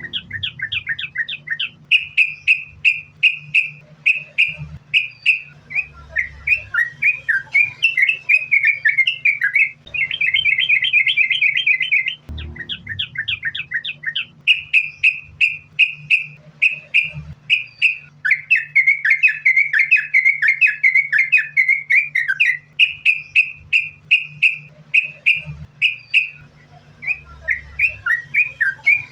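Yellow-vented bulbul singing in a near-continuous run of fast, repeated chirping notes, with only brief pauses.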